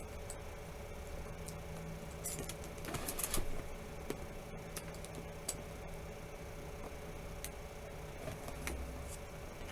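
Faint clicks and taps from handling a smartphone, with a small cluster about three seconds in and a single click near the end, over a low steady hum.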